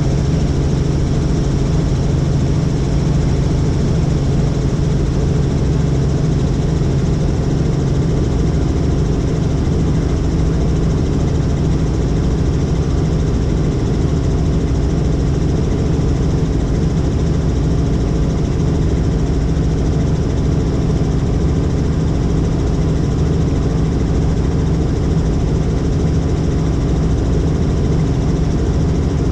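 Helicopter in flight heard from on board: a steady, loud engine and rotor noise with a constant hum. One low tone in the hum drops away about eight seconds in.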